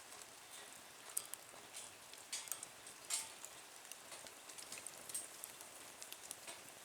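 Wood fire crackling in a small wood-burning camp stove: irregular pops and snaps over a faint hiss, with the loudest snap about three seconds in.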